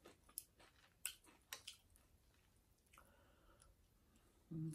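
Faint close-up chewing with a few sharp, wet mouth clicks in the first two seconds, then a short hum from the eater near the end.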